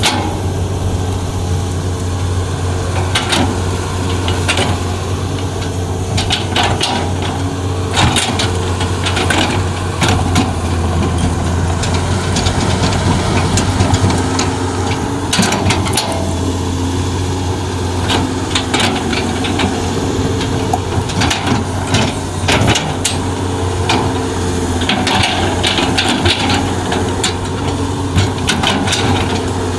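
Large hydraulic excavator's diesel engine running steadily with a low drone, under a scatter of sharp knocks and clanks from the bucket working in soil and rock.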